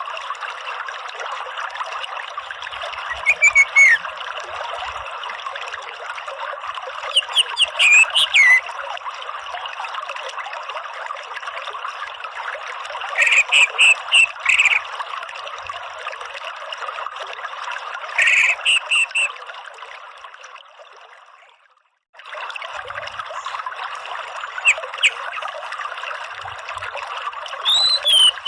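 Orange-headed thrush giving short bursts of high gliding and repeated notes every few seconds over a steady trickle of running water. The water fades out about 22 seconds in, there is a brief silence, and it starts again.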